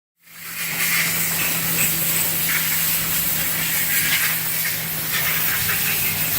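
Haas VF-2SS CNC vertical mill running: a steady hum under a loud, even hiss, starting abruptly just after the start.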